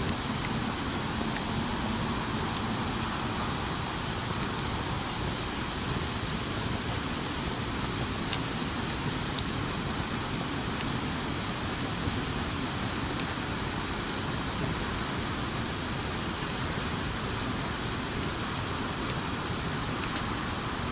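Campfire burning: a steady hiss with a few faint crackles scattered through it.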